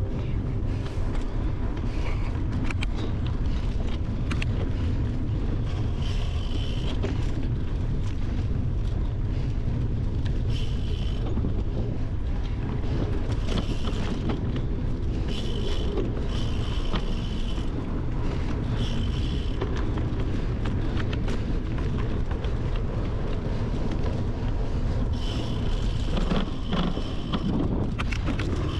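Wind buffeting a handlebar-mounted camera's microphone over the rumble of bicycle tyres rolling on gravel and dirt, with steady small rattling clicks from the bike over the rough surface. A brief high-pitched sound comes and goes several times.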